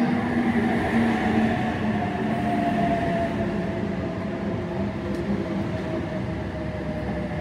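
Electric passenger train moving along the platform close by: a steady rumble of wheels and cars with a motor whine that slowly falls in pitch, easing a little in loudness.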